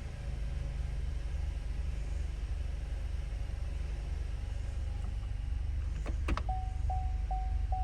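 2018 Chevy Cruze 1.4-litre engine idling steadily. Near the end there are a couple of clicks, then the car's warning chime beeps four times.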